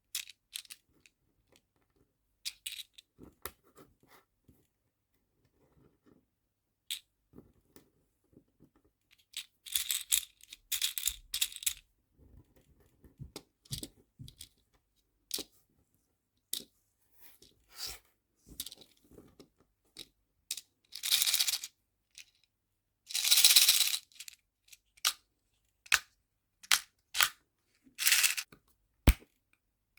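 Nail-art charms and small plastic storage boxes being handled: scattered sharp clicks and taps, with a few louder rustling bursts of a second or two.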